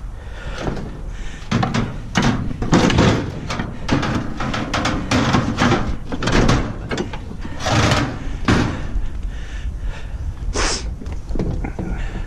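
A heavy metal deck being pried and shoved over an edge where it has hung up, scraping and clanking in a dozen or so irregular bangs and drags.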